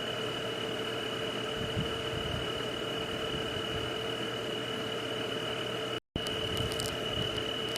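Night ambience: a steady, unbroken high-pitched insect drone over a soft hiss. The sound cuts out completely for a split second about six seconds in, then resumes with a few faint clicks.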